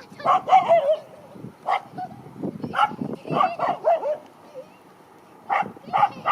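An animal's short yips and whines in quick clusters, with a pause in the middle and two more near the end.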